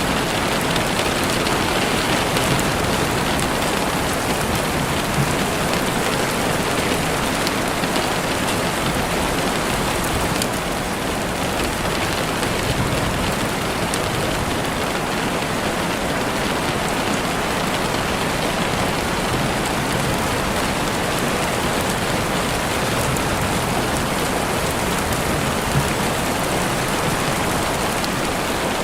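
Steady rain falling on surfaces, an even dense hiss, with a few faint sharp ticks scattered through it.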